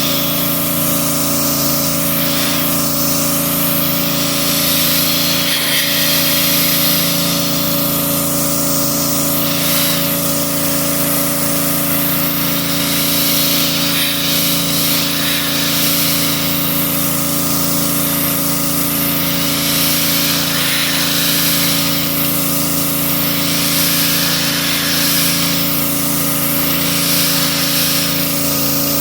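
A machine running with a steady hum while a spray hisses, the hiss swelling and easing every couple of seconds.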